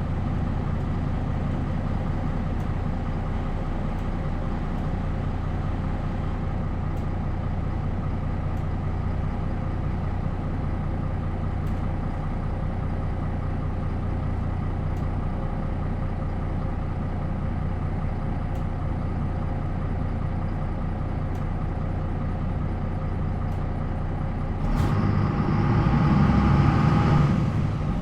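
The MAN D28 diesel engine of a MAN NL 263 city bus running steadily. Near the end a louder rush of sound lasts about three seconds, then it settles back to the steady note.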